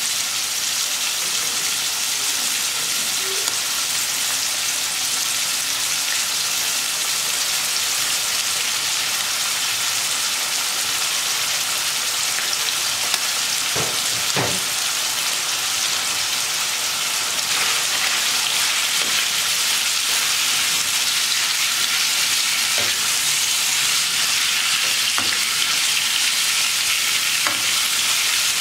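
Beef liver sizzling steadily as it fries in a pan. About halfway through, sliced onion goes in with a couple of soft knocks, the sizzle then grows a little louder, and a wooden spatula stirs with light taps near the end.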